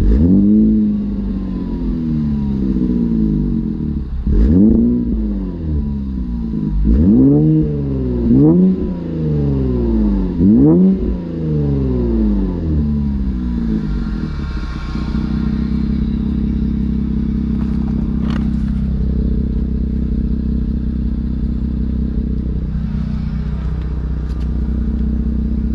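Infiniti Q50 Red Sport 400's twin-turbo 3.0-litre V6, breathing through a Motordyne exhaust and AMS lower downpipes, blipped about five times in quick revs that rise and fall back, then settling to a steady idle.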